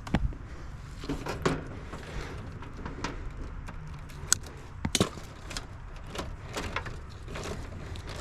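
Scattered small clicks and knocks of hands and tools handling wires and terminals inside an outdoor heat pump's control panel, with the loudest knock about five seconds in.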